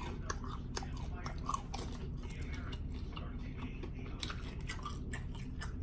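Close-miked chewing of a beef-and-cheese empanada dipped in salsa: a run of small crunches and wet mouth clicks.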